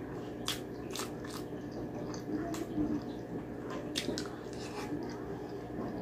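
Close-miked mouth sounds of eating braised pork humba by hand: soft chewing with several sharp, wet clicks and smacks.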